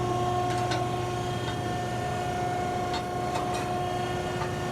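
Wysong H2510 power shear running idle between cuts: a steady machine hum, with a few faint light clicks.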